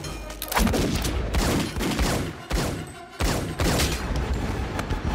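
Film sound effects: a rapid, continuous volley of handgun shots, many in quick succession, starting suddenly and loud.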